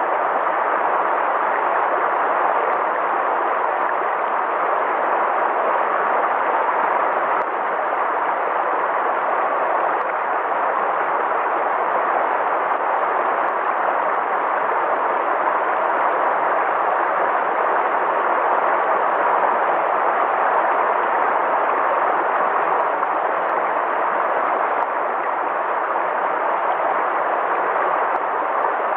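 Flowing river water making a steady, even rush with no breaks or changes.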